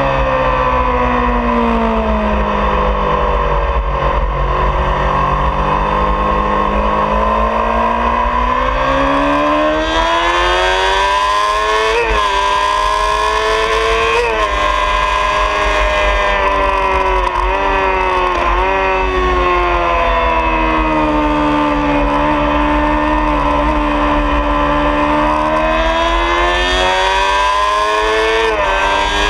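2003 Honda CBR600RR's inline-four engine running hard on track, its pitch falling and rising with speed through corners and straights, broken several times by brief sharp jumps at gear changes. A steady low wind rumble on the microphone runs underneath.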